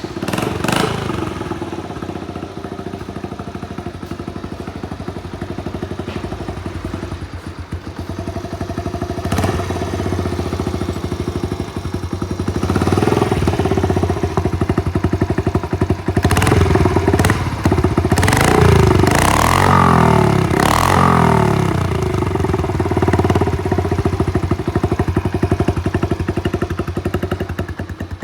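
Honda Magna 50's small 49cc four-stroke single-cylinder engine running: idling steadily, then revved in several blips of the throttle, rising and falling in pitch, before dropping back to idle.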